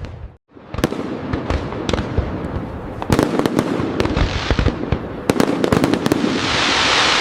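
Fireworks display: dense crackling scattered with sharp bangs and pops, heavier around the middle, then a swell of crackle near the end. A brief silent break comes about half a second in.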